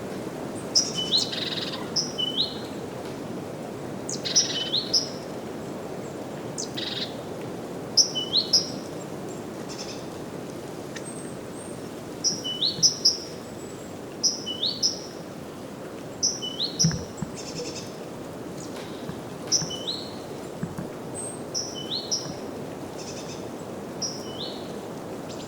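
Wind rushing steadily through a spring birch forest, with a small bird calling short high chirps over it, usually two or three quick notes together, repeated every second or two.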